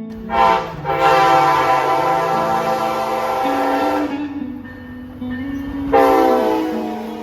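Train horn blowing: a short blast, then a long blast of about three seconds, then another long blast that begins about six seconds in and fades out.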